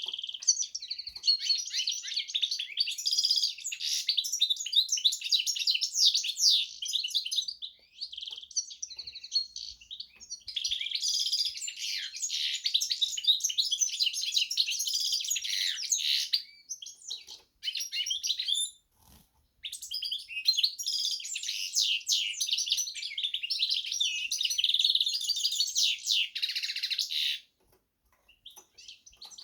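A Carduelis × canary hybrid singing: long, rapid phrases of high twittering trills and chirps, with a few short pauses between them.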